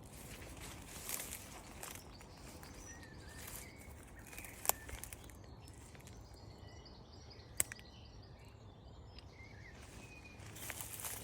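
Faint outdoor ambience with scattered bird chirps, two sharp clicks near the middle, and brief rustling near the start and end, over a low rumble.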